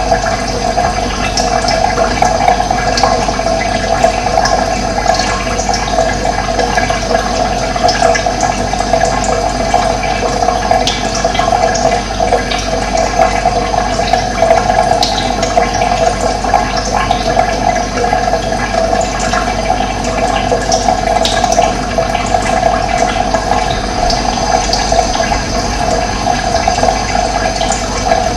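Steady rushing of running water, with brief bird chirps scattered through it.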